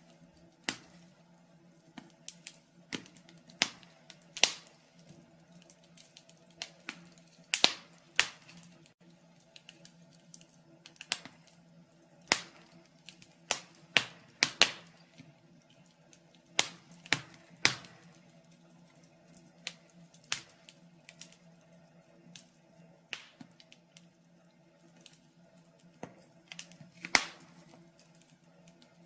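Wood fire burning in a fireplace, crackling with irregular sharp pops and snaps, about one or two a second, some much louder than the rest, over a faint steady hum.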